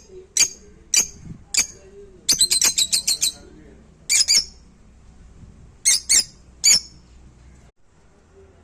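Pet parrot squawking in short, harsh, high calls: a few single squawks, a rapid burst of about eight, then pairs and a triple, falling quiet near the end. The owner presents the squawking as the bird's anger.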